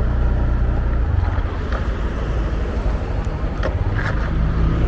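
Motorbike engine running steadily under way, with road and wind noise at the microphone.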